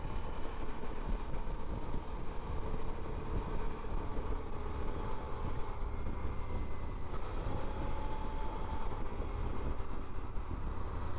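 Steady rumble of a moving car's engine and tyres on the road, heard from inside the cabin.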